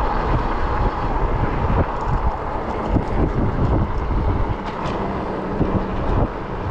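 Wind buffeting the microphone, with a steady low rumble throughout.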